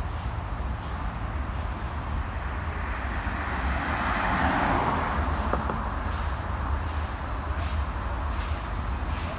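A vehicle passing by: its noise swells to a peak about four to five seconds in and then fades, over a steady low rumble.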